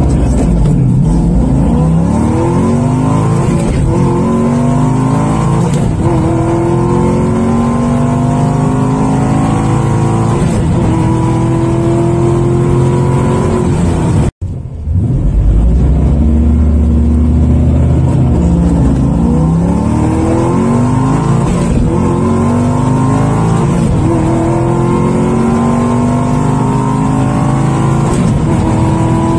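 C5 Corvette Z06's LS6 V8, fitted with long-tube headers, test pipes and an off-road X-pipe, at wide-open throttle, heard from inside the cabin: the engine note climbs in pitch through each gear and drops back at each upshift. About halfway through it cuts off abruptly, and a second full-throttle run starts from the launch and climbs through the gears again.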